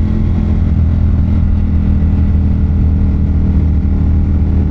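Ducati Monster 1200's L-twin engine running steadily at an even throttle while cruising, its pitch holding level.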